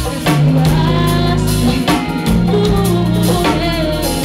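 Live band playing: a singer's voice over a drum kit, bass and guitar.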